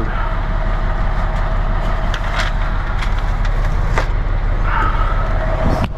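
Semi truck's diesel engine idling steadily, with a few scattered clicks and knocks over it.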